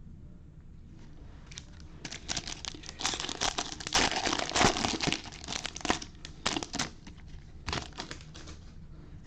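A foil trading-card pack wrapper being torn open and crumpled by hand: a run of dense crinkling from about two seconds in, loudest near the middle, with a few last crackles about a second later.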